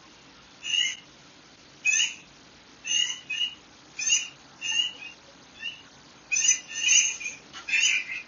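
Bird calling in a string of short, high chirps, about a dozen in irregular succession, over a faint steady hiss.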